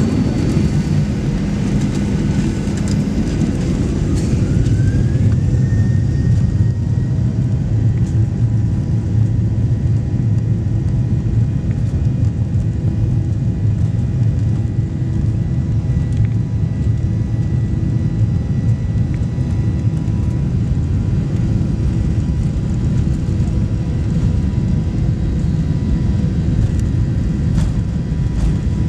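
Boeing 737 Next Generation jet engines at takeoff power: a loud, steady rumble, with a whine that rises about four seconds in and then holds, as the engines spool up for the takeoff roll.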